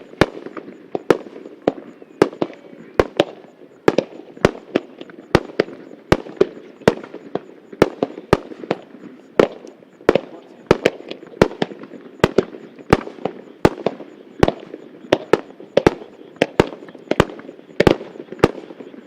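Starmine fireworks barrage: aerial shells bursting in rapid succession, sharp bangs about two or three a second, with a continuous rumble and crackle between them.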